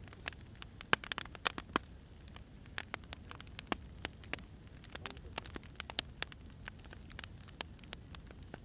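Burning firewood crackling: irregular sharp pops and snaps, several a second, over a low steady rumble of the fire.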